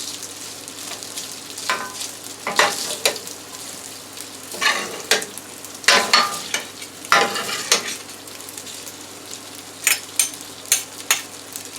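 Pasta being stirred and tossed in a hot frying pan: a utensil scrapes the pan in irregular strokes, some briefly squeaky, over a steady sizzle.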